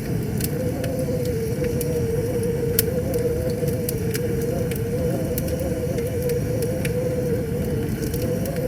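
Wood fire crackling, with sharp irregular pops, over the steady low rush of flowing river water and a wavering hum.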